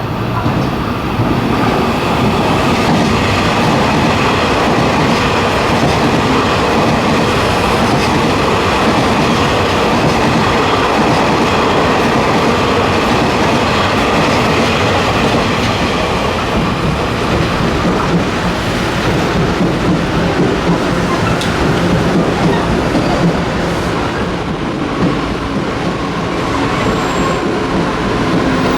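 Taiwan Railway electric multiple unit train (EMU3350) running along the rails, a loud continuous rumble of wheels with rhythmic clatter and a faint steady whine over it. It eases off a little about two-thirds of the way through.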